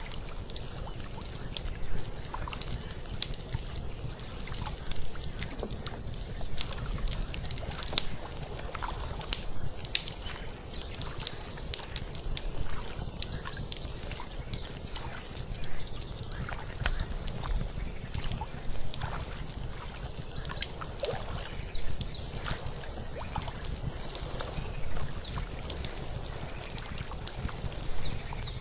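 Layered lakeside night ambience: an outdoor wood fire crackling with frequent sharp pops, over water lapping and a steady low rumble, with scattered short high bird or insect chirps.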